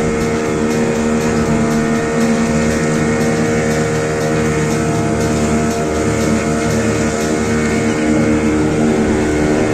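Motorboat engine running steadily under way, with the hiss of water and wind.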